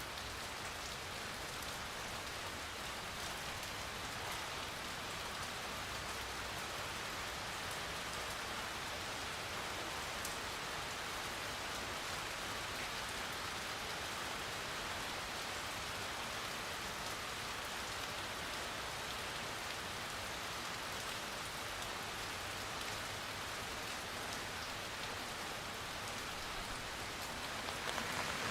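Steady rain falling: an even, dense hiss of drops that swells a little louder at the very end.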